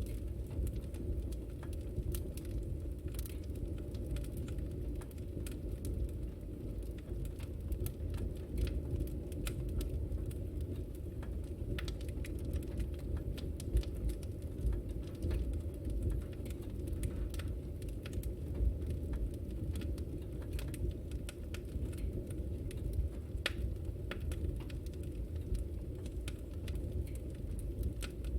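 Wood fire burning in a fireplace: a steady low rumble of the flames with frequent small, irregular crackles and pops, a few sharper ones standing out.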